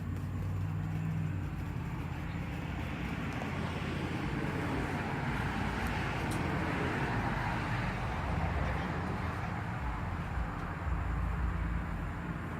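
A firework hissing as it burns, swelling to its loudest about halfway through and then dying down, over a steady low rumble.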